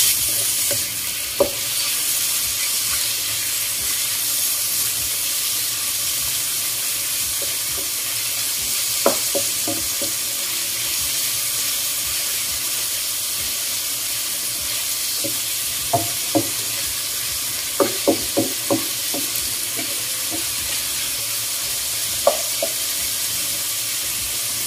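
Sliced pork frying with onion and garlic in a wok, a steady sizzle, while a wooden spatula stirs it. The spatula knocks against the pan now and then, with a quick cluster of taps about two thirds of the way through.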